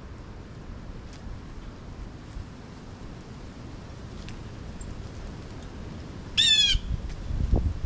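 Blue jay giving one short call, a quick run of notes, about six and a half seconds in, with a fainter high chirp earlier.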